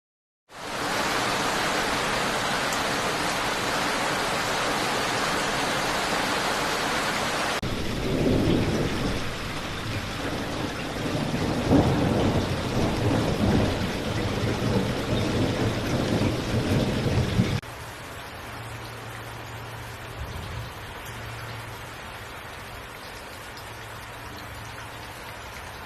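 Rain falling, heard in three sections that change abruptly. First comes a steady hiss of heavy rain. From about eight seconds, low rumbling that swells and fades, like thunder, runs under the rain, until a sudden cut to quieter rain with a faint low hum near the end.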